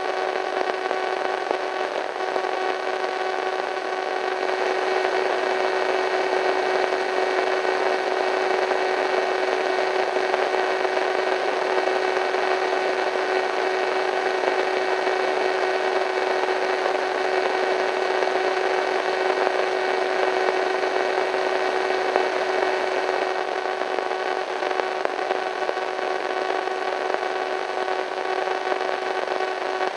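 Radio static: a steady hiss of white noise with faint steady hums running through it, slightly eerie.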